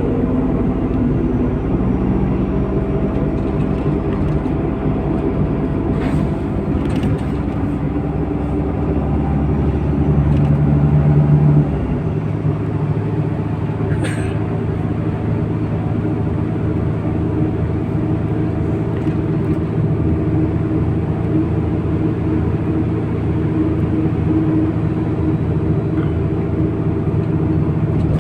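MAZ-103.469 city bus heard from inside the cabin, its engine and drivetrain running as it drives. The engine note climbs and grows louder, drops abruptly about twelve seconds in as the gear changes, then runs steadily; a short click about fourteen seconds in.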